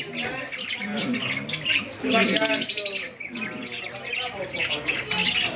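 Small cage birds chirping and calling together, with one louder, high-pitched call about two seconds in.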